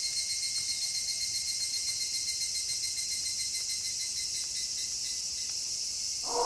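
Crickets chirring steadily in a high, fine pulsing trill as a night background. Near the end a wolf's howl begins on a held pitch.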